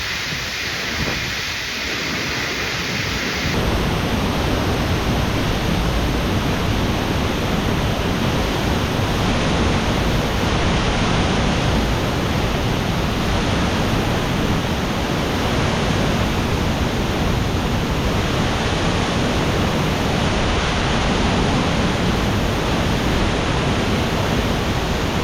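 Waterfall plunging from a mine-tunnel mouth into a slate-quarry pit, a loud, steady rushing of water. For the first few seconds a thinner hiss of heavy rain is heard instead; it switches abruptly to the full rush of the falls about three and a half seconds in.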